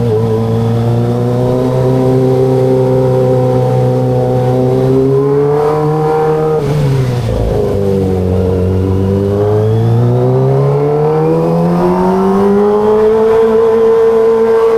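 Kawasaki ZX25RR's 249 cc inline-four running under way. The engine note holds steady, drops as the throttle eases about six seconds in, then climbs smoothly in pitch from about nine to thirteen seconds and holds near the end.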